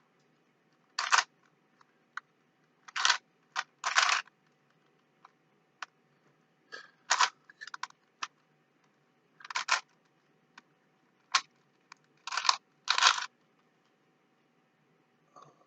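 Rubik's cube being twisted by hand: short plastic clicks and rattles of the layers turning, in irregular spurts with pauses between.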